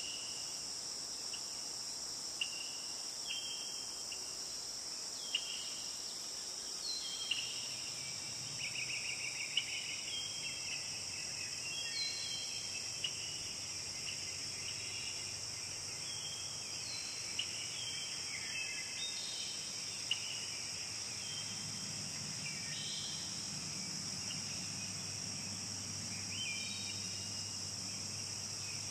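Steady high-pitched insect chorus, with short chirps scattered throughout. A low hum comes in about a quarter of the way through and grows stronger near the end.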